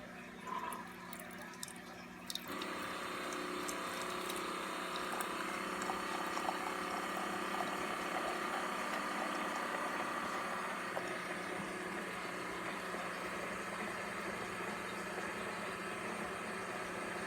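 Keurig K-Compact single-serve coffee maker brewing: about two seconds in, its pump starts and runs with a steady hum while hot coffee streams into the cup.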